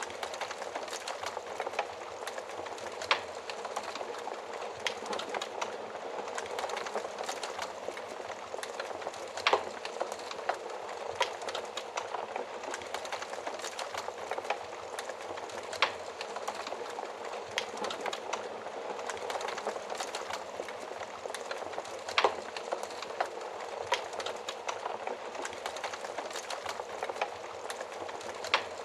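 Wood fire burning in an oven: a steady hiss of flames with frequent small crackles and louder sharp pops every few seconds.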